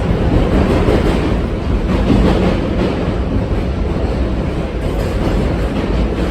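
R68 subway train running along the track, a steady loud rumble of wheels on rail and car noise.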